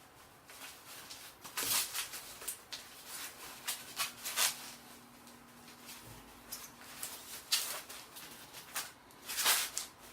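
Intermittent rustling and scraping from handling packaging and bow parts, a handful of short rustles spread through, the loudest near the end.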